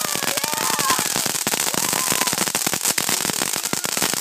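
Firecrackers going off in a rapid, continuous crackle of many small sharp pops a second.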